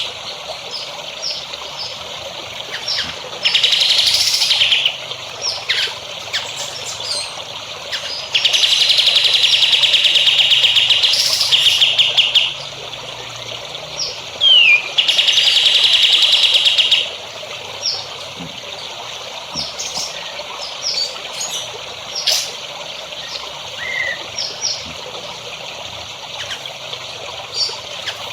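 Caged songbird song: three long, rapid rattling trills, the longest about four seconds, with short chirps and whistled notes between them. A steady trickle of water runs underneath.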